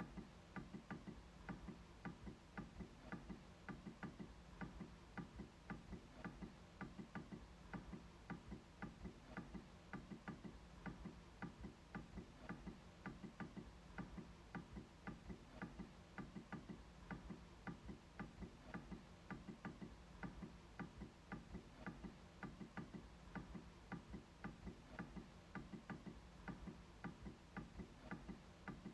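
MacBook trackpad being clicked repeatedly: faint, short clicks at a steady pace of about two to three a second.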